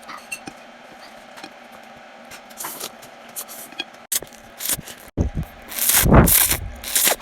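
Close-miked mukbang eating sounds: light taps and clicks of food and utensils, then loud, irregular chewing from about five seconds in.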